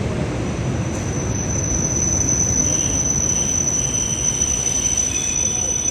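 ChS7 electric locomotive and its passenger train running past: a steady rumble and rush of train noise, with a high, steady squeal that comes in about a second in and holds.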